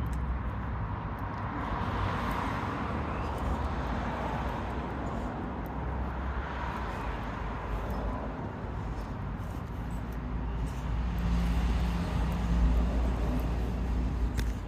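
Road traffic noise: a steady low rumble and hiss that swells three times, as vehicles pass.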